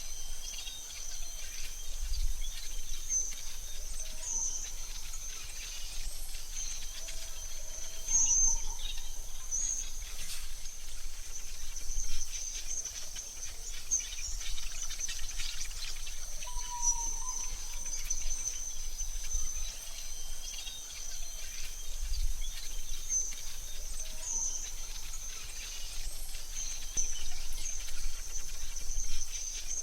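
Forest ambience: a steady, high-pitched insect drone like crickets runs throughout, with occasional short bird chirps and soft low rumbles.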